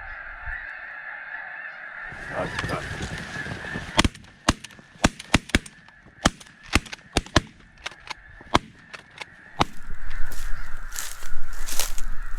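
A large flock of snow geese calling, a steady din of honking. About four seconds in, a quick string of sharp clicks or knocks sounds over it. Near the end a louder rushing noise sets in.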